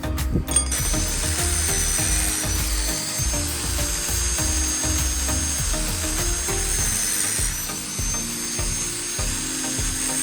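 A power tool working steel rebar, with a steady high-pitched whine that starts about half a second in and dips briefly partway through, over background music with a beat.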